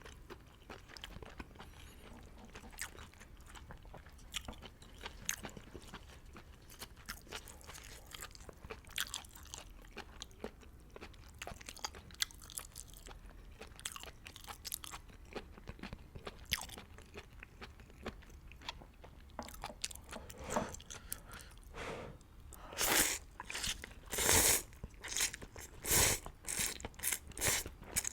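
Close-miked eating of beef hot pot noodles: chewing with many small wet mouth clicks. In the last third comes a string of louder, longer eating sounds, about one a second.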